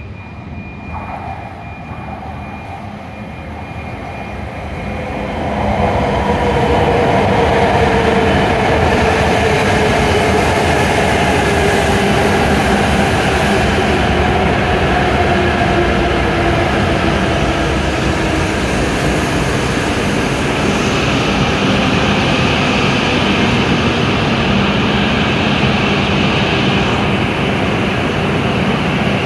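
E7 series Shinkansen train pulling into the platform: its running noise swells about five seconds in as it comes alongside, with a whine that slowly falls in pitch as it slows down.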